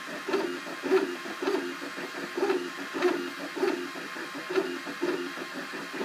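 Cubify 3D printer's stepper motors whirring during a print, in a repeating pattern of short pitched whirs with sharp ticks, close to two a second.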